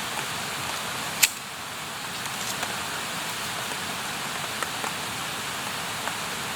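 Wood campfire burning with a steady hiss and scattered small crackles, and one loud sharp pop about a second in.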